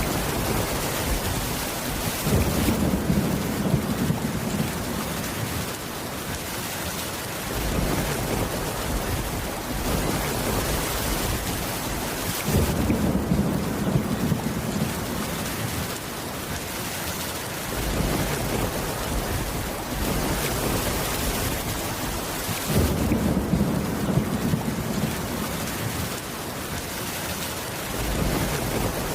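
Steady heavy rain with low rolls of thunder, three of them about ten seconds apart.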